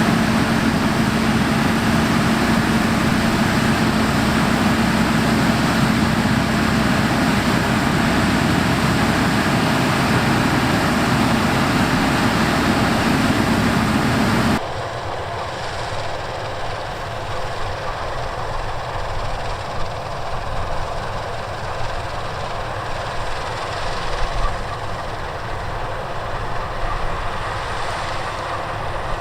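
Harvest machinery running steadily, with a steady droning tone over the engine and machine noise. About halfway through, the sound cuts abruptly to a quieter, thinner running of machinery.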